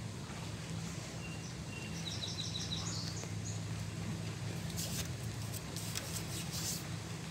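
Lakeside outdoor ambience under a steady low hum. A bird gives a thin whistle and then a quick run of about half a dozen high chirps, about one to three seconds in. A few sharp ticks follow near the end.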